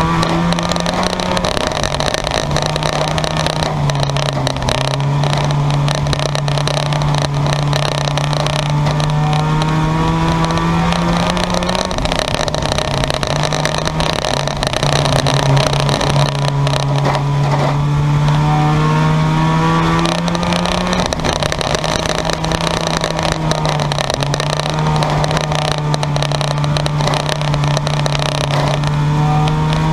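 Junkyard race cars running laps, with a close engine note that climbs and then drops back in a repeating cycle of about eight to nine seconds as the cars accelerate and lift, over the steady din of the other engines.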